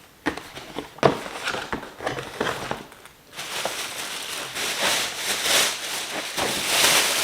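Cardboard donut box being handled and closed, with a few light knocks, followed from about halfway by a continuous crinkling rustle of packaging being handled.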